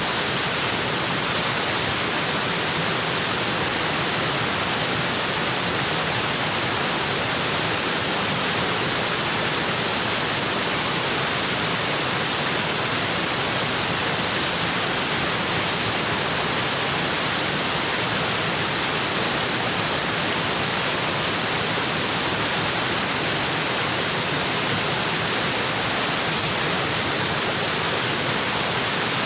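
Waterfall pouring onto rocks: a steady, even rush of falling water with no change.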